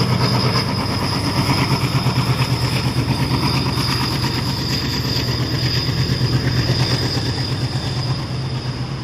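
Freight train of covered wagons behind two WDG-3A ALCO diesel locomotives rolling past: a steady, rhythmically pulsing rumble of wheels on rail with the engines' low drone, and a thin steady high whine over it. The sound begins to fade near the end.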